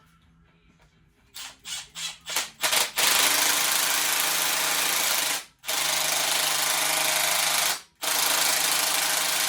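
Power impact gun running bolts down into a Stihl MS 171 chainsaw. It gives a few short trigger blips, then three long runs of two to three seconds each with brief stops between them.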